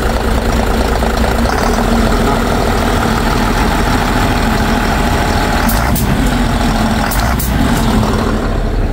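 Mitsubishi Fuso Fighter's 6M60 inline-six diesel engine idling steadily just after starting, now that its ECU is communicating again. A few short sharp sounds come about six and seven seconds in.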